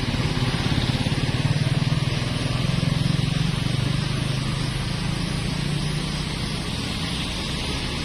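A motor vehicle engine runs steadily with a low pulsing hum, loudest in the first half and gradually fading toward the end.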